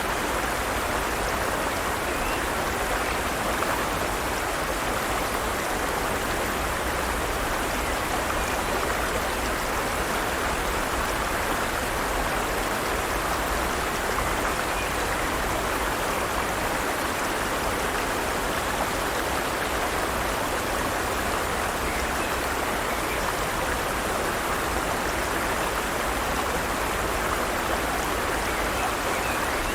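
Forest stream running over rocks: a steady, even rush of flowing water.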